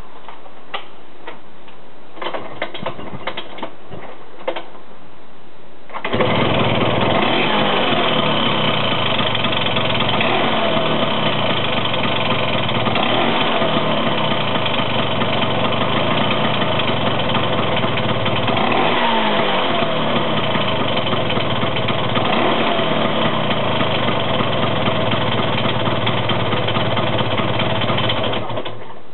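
A Vespa 125 scooter engine running with a high-pitched whine. It comes in suddenly about six seconds in after a few faint clicks, holds steady with a few brief dips and rises in revs, and cuts off shortly before the end.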